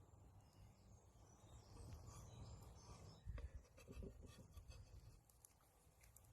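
Near silence: a faint low rumble with a few soft knocks and ticks.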